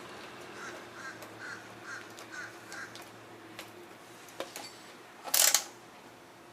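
A bird calling, six short faint calls about two a second, then a short, loud rasping burst about five and a half seconds in.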